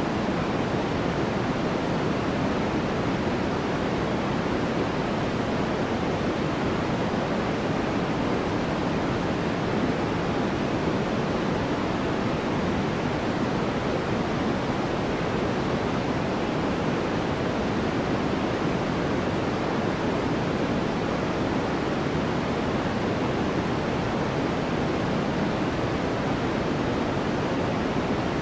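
Continuous white-noise sleep sound: an even, unchanging rushing hiss, fuller in the low and middle tones than in the highs.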